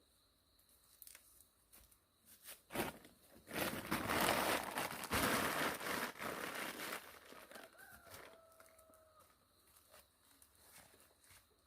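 Leafy plant material rustling and tearing for a few seconds in the middle, after a few light clicks. About eight seconds in comes one short pitched animal call that holds steady for about a second.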